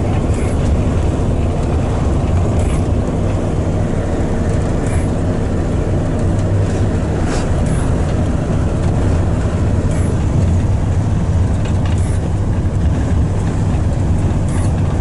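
A truck driving, heard from inside the cab: a steady low engine and road rumble, with faint short ticks about every two and a half seconds.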